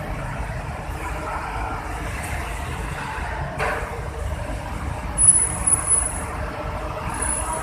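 Hino truck's diesel engine running with a steady low rumble. There is a sharp knock about three and a half seconds in, and a thin high whine comes in over the second half.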